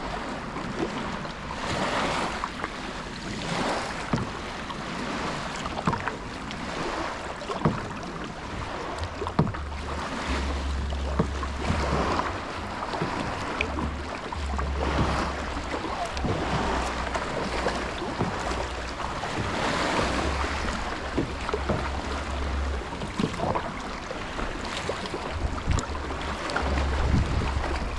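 Kayak paddle strokes dipping and splashing through the water in a steady rhythm of soft surges every second or two, with wind buffeting the microphone in gusts from about a third of the way in.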